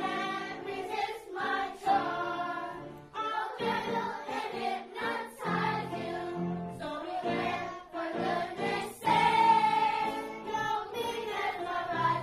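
A children's choir singing together.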